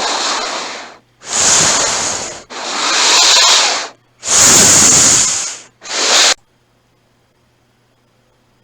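Five loud, hissing bursts of breath-like noise, each about a second long with short gaps, like heavy in-and-out breathing close to the microphone. The noise stops abruptly a little over six seconds in, leaving only a faint hum. The uploader takes it for someone breathing outside.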